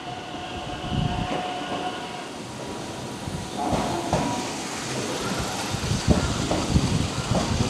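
Keihan electric train running through the station, its wheels clattering over the rail joints, with a whining tone that shifts in steps from about halfway through.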